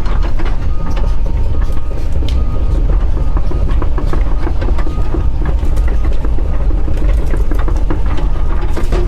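Doosan DX140 excavator working hard, heard from inside the cab: its diesel engine runs loud and steady with a faint high tone over it. Frequent clicks and knocks rattle through.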